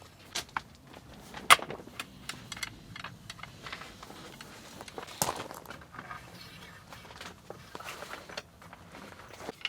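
Scattered irregular clicks and knocks, with a sharp louder knock about one and a half seconds in and another about five seconds in.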